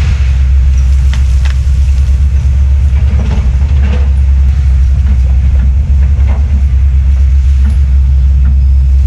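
Heavy diesel land-clearing machinery running steadily, a loud deep drone with scattered short sharp cracks over it.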